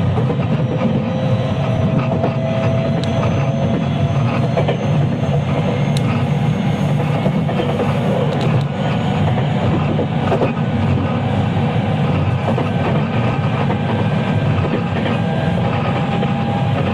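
JR West 223 series electric train running, heard aboard the motor car KuMoHa 223-3016: a steady loud rumble of wheels on rail with a few sharp clicks from the track. Faint tones glide slowly upward in pitch.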